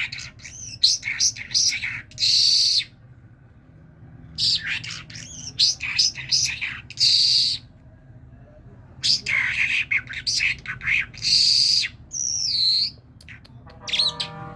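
Pet common myna calling in three bouts of quick, sharp, high chattering notes and whistles. A twisting whistle and a short pitched call come near the end.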